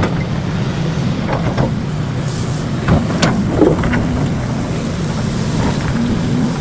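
An engine running steadily with a low rumble, with a few short knocks and clatters over it.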